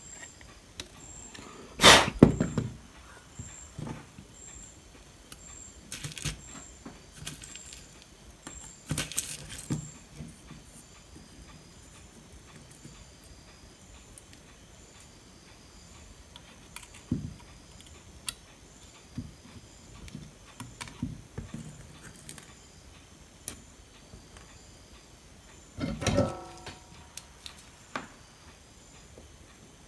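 Scattered clicks, taps and knocks from tools and parts being handled on a workbench during circuit-board repair. The loudest clatter comes about two seconds in, and a brief ringing clink comes near the end.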